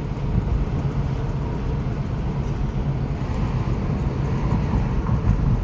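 Steady low road and engine noise of a car driving along a road, heard from inside.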